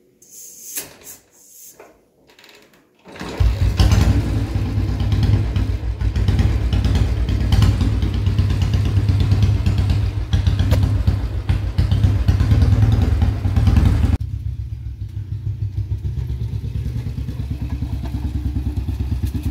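1966 Royal Enfield Bullet's single-cylinder engine starting after a few brief noises, running fast and loud for about ten seconds. About fourteen seconds in it drops to a slower, quieter idle with an even beat.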